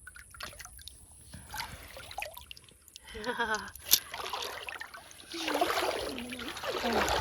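Shallow river water splashing and trickling, with a few sharp knocks along the way; a voice sounds faintly in the second half.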